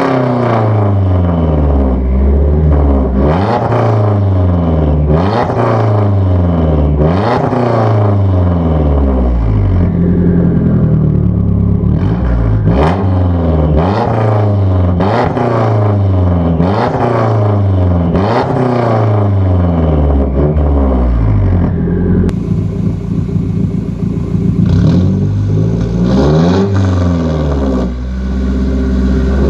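Straight-piped Mazdaspeed3's turbocharged four-cylinder engine free-revving in quick repeated blips, about one every two seconds, each rising and falling back. About two-thirds through it changes to a steadier run with one more rise in revs near the end.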